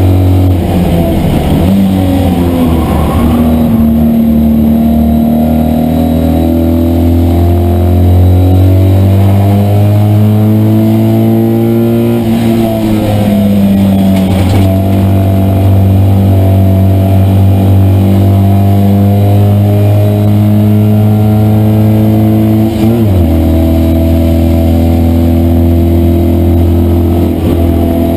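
Citroën 2CV race car's air-cooled flat-twin engine running hard, heard from inside the cabin. The note rises and falls with the revs, with brief sharp drops near the middle and again about four-fifths of the way through.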